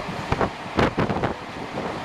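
Running noise of a train heard from on board: a steady rumble with wind noise and irregular clatters and rattles.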